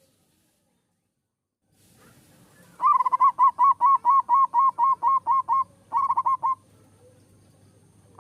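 Zebra dove (perkutut) singing. It starts about three seconds in with a quick run of about a dozen short, evenly repeated cooing notes, about five a second, then a short group of four more.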